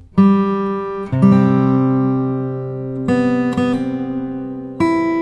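Music: acoustic guitar chords, struck five times and each left to ring and fade.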